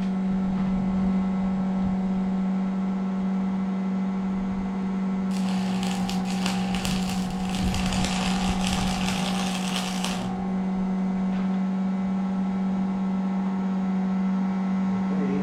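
A steady machine hum. About five seconds in, a harsh hissing crackle joins it for roughly five seconds, then cuts off.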